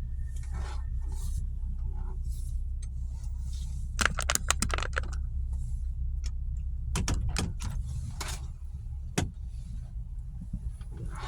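Clusters of small rattling clicks, about four seconds in and again around seven seconds, with a single click near nine seconds, over a steady low rumble.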